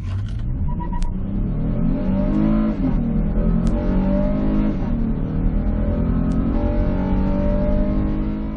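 2019 Honda Odyssey's 280 hp 3.5-litre V6 at full-throttle acceleration from a standstill to about 60 mph, heard from inside the cabin. The engine note climbs and drops back at each upshift of the 10-speed automatic.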